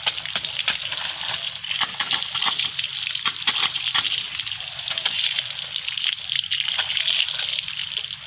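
Water splashing and sloshing, with many small splashes one after another.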